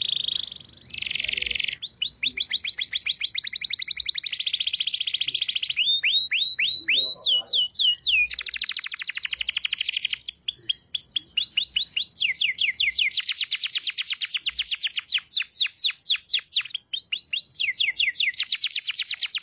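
Songbird singing fast, high trills, each made of quick repeated downward-sweeping notes, in rapid back-to-back phrases that cut off suddenly at the end.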